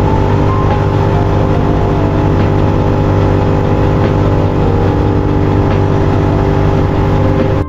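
Suzuki SV650X V-twin motorcycle engine with a Scorpion exhaust, running at a steady, unchanging pitch while cruising, with wind rush over it.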